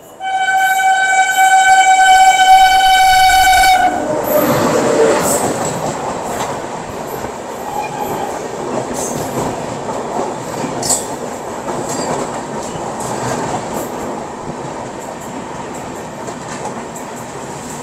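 An Indian Railways train horn sounds one long steady blast for about four seconds, then cuts off sharply. A passenger train's coaches rush past on the next track with a steady rumble and wheels clacking over the rail joints, slowly easing off.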